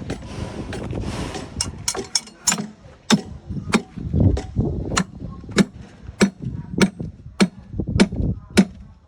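A series of sharp knocks repeating at an even rhythm, about one every 0.6 seconds, each with a low thud, after a burst of hissing noise in the first second or so.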